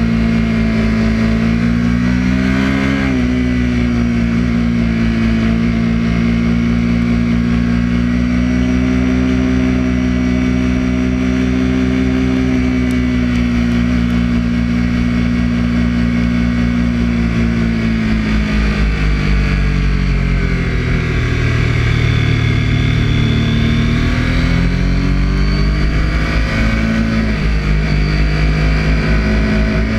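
Triumph Daytona 675's three-cylinder engine heard from an onboard camera with wind rush: held at high revs for a long stretch, with a quick dip and rise a few seconds in, then the revs fall away about two-thirds of the way through and climb again as the bike accelerates.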